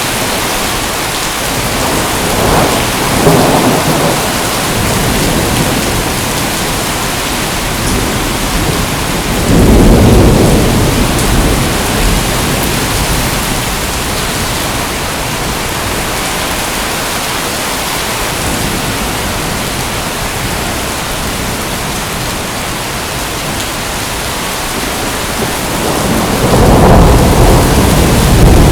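Steady heavy rain falling, with thunder rumbling three times: once a few seconds in, once about ten seconds in, and once more near the end.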